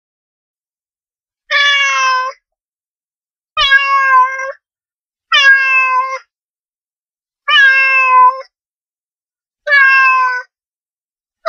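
Domestic cat meowing five times, each meow under a second long and about two seconds apart, starting about a second and a half in.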